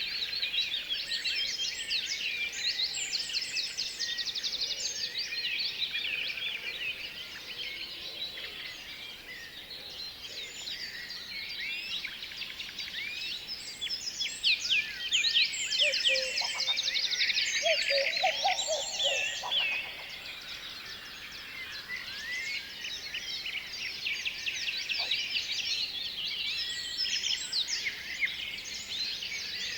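A chorus of many small birds chirping and trilling at once, the calls overlapping without pause. It gets louder and busier around the middle, when a lower call joins in for a few seconds.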